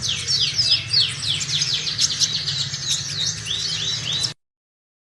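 Sunbird singing a fast, continuous run of high, thin descending chirps, closing with a few short arched notes before the sound cuts off abruptly about four seconds in. A low steady hum runs underneath.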